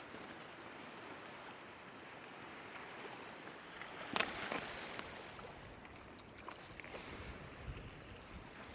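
Soft, steady wash of the sea on a rocky shore, with a short crunching scrape about four seconds in and a few small clicks later on.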